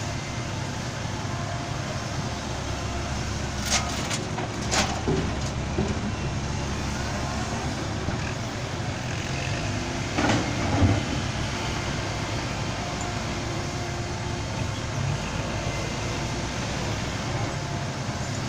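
Heavy diesel engine running steadily at a low hum, with a few short knocks or clatters about four, five and eleven seconds in.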